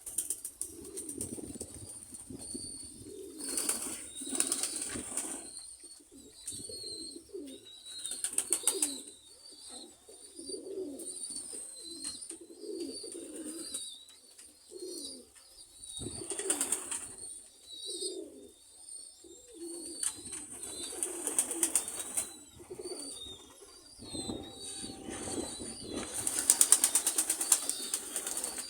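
Domestic pigeons cooing over and over, with several loud bursts of wing flapping as birds take off or land.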